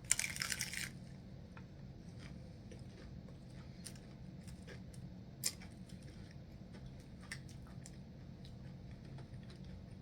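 A person eating nachos: a loud crunchy bite of tortilla chips in the first second, then quiet chewing with a few scattered small clicks over a low steady hum.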